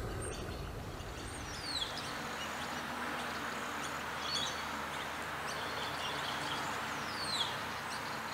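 Steady outdoor background hiss with a bird calling over it: a high whistle falling in pitch, once about half a second in and again near the end, with a few short chirps between.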